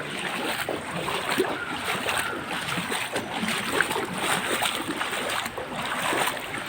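Feet wading through floodwater that is mixed with sewage: irregular sloshing and splashing with each step.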